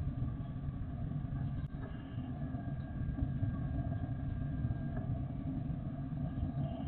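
Jet aircraft engines running with a steady low rumble and several steady whining tones, a thin higher tone joining for about three seconds in the middle.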